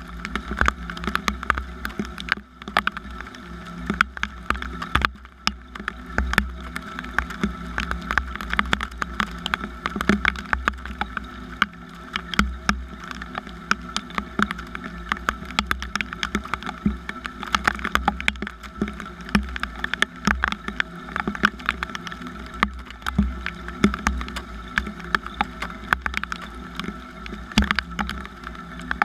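Rain falling: dense, irregular drop clicks over a steady low rumble.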